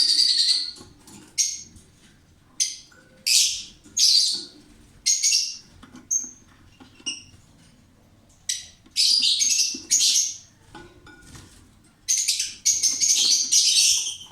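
Lovebirds giving short, harsh, shrill screeches in irregular bursts, some running together into longer runs, with a few thin, brief chirps between.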